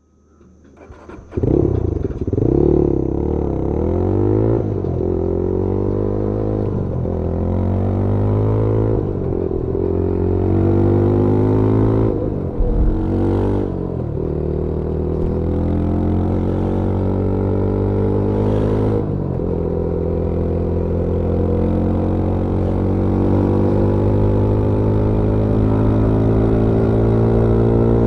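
Yezdi Scrambler 350's 334cc single-cylinder engine and exhaust heard onboard, pulling away and accelerating through several gears: the pitch climbs and drops back at each shift. It then settles into a steadier run with a slow rise in the last several seconds.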